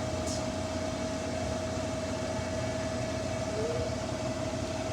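Samsung front-loading washing machine running its spin cycle: a steady motor hum with one constant high whine over it.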